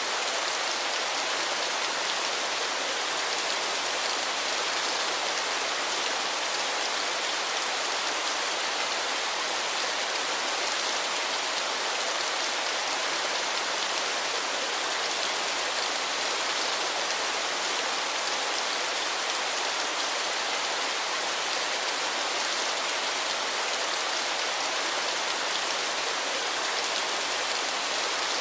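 Waterfall: a steady, even hiss of falling water, strongest in the upper range with little low rumble.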